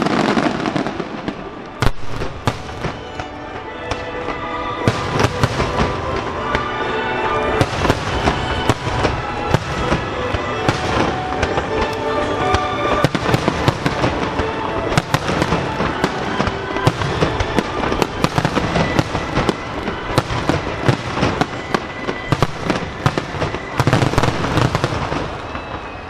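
A starmine barrage of firework shells bursting over a lake, many sharp bangs in quick succession, with music playing underneath from a few seconds in. The bangs echo strongly around the basin.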